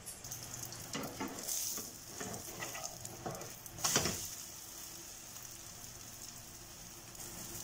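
Egg and vegetable omelette frying in butter in a frying pan, sizzling steadily, with a few scrapes and taps of a plastic spatula and spoon during the first four seconds, the loudest knock about four seconds in.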